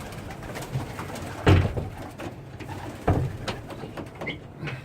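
Pigeons cooing in an enclosed loft, with two short loud thumps about a second and a half apart.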